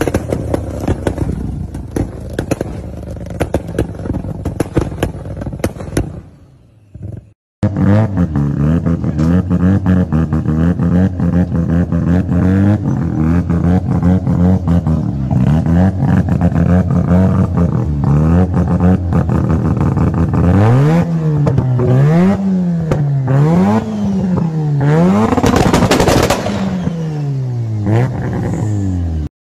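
Toyota GR Supra exhaust popping and crackling while it spits flames. After a cut, a Mazda RX-7 FD's twin-turbo 13B rotary engine idles with a choppy, lumpy beat, then is revved up and down about five times near the end.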